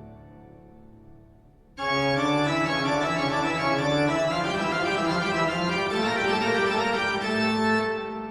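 Spooky organ music: a held chord fades away, then about two seconds in a loud new chord comes in and is held, dying away near the end.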